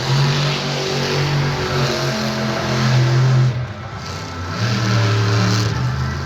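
Monster truck engine revving hard and changing pitch as the throttle is worked. It drops off briefly about three and a half seconds in, then climbs again.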